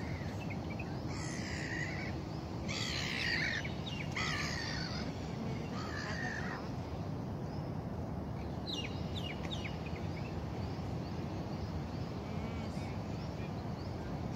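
Birds calling outdoors: several harsh calls in the first seven seconds, then a quick run of short chirps about nine seconds in, over a steady low background hum.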